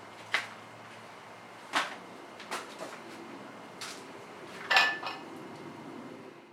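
About five sharp clicks and knocks at irregular intervals over a low steady hum; the loudest comes a little past the middle.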